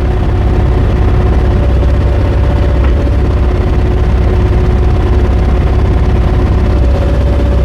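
Mini excavator's diesel engine running steadily while the hydraulic thumb is worked, with a steady hydraulic whine. The engine note deepens and the whine grows under load about two seconds in and again near the end.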